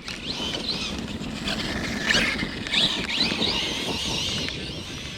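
Brushless motor of an Arrma Kraton 6S RC truck whining up and down in pitch with the throttle as it is driven over wet ground, over a steady rushing noise from the tyres.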